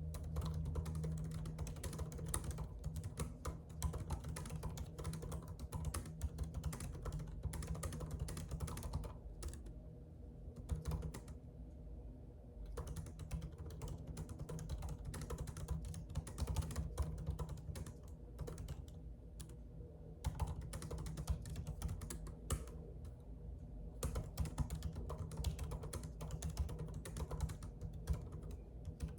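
Typing on a computer keyboard: quick, irregular runs of keystrokes with a few brief pauses, over a steady low hum.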